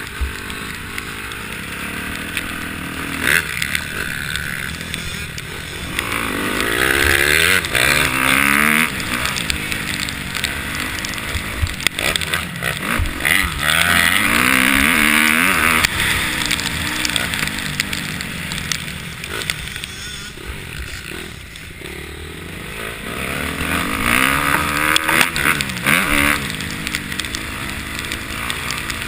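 Motocross dirt bikes racing around the track, engines revving up and falling back through the gears. The sound swells loud three times as bikes come close, about a quarter of the way in, around the middle and near the end.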